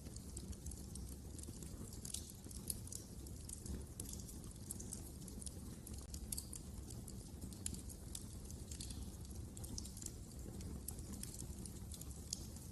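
Wood fire crackling in a fireplace: irregular sharp snaps and pops, several a second, over a steady low background.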